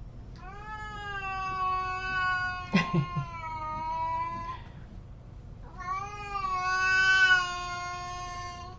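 A cat giving two long, drawn-out yowling meows, the first about four seconds long and the second about three, with a short knock partway through the first.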